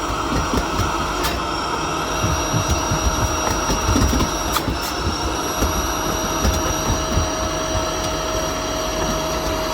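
Miele Blizzard CX1 cylinder vacuum running steadily with a constant whine, with uneven low rumbling and a few clicks as the floor head is worked.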